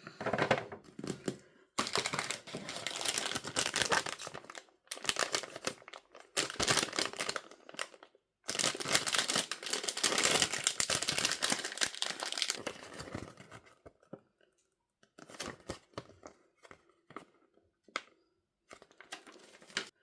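Packaging being crinkled and torn open by hand, in dense crackling bursts for about the first thirteen seconds, then a few scattered crackles and taps.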